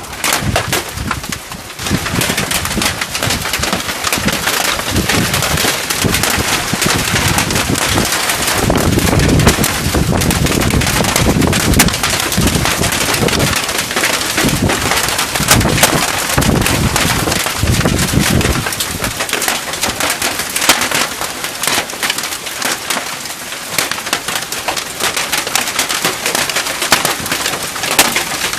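Hailstorm: hailstones and heavy rain pelting down in a dense, continuous clatter of sharp impacts.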